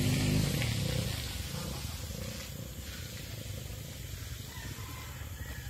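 Trail motorcycle engine revving up and easing off in the first half-second, then running at low revs, its sound fading away.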